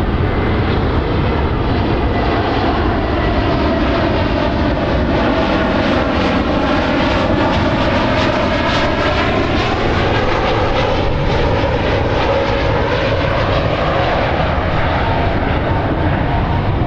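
Boeing 767-300ER's twin turbofan jet engines at takeoff thrust: a loud, steady roar with a swirling tone that sweeps down and back up as the jet passes.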